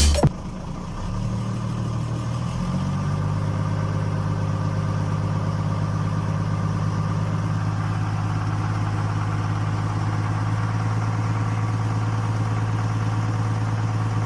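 An engine idling steadily with a low hum. It starts just as music cuts off and builds over the first few seconds before holding level.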